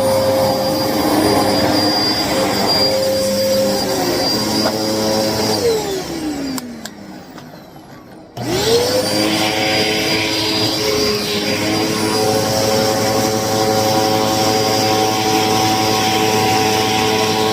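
Hoover upright vacuum cleaner's motor running with a steady whine, then switched off about five and a half seconds in, its pitch falling as it spins down. About eight seconds in it is switched back on and quickly whines back up to full speed; the owner says the vacuum is clogged.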